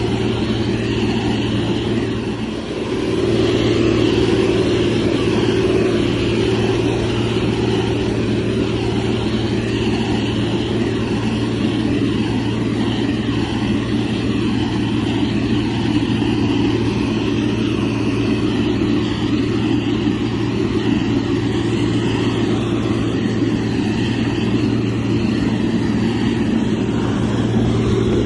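Diesel engine of a heavy road-construction machine running steadily under work, a constant low hum that dips briefly about two and a half seconds in.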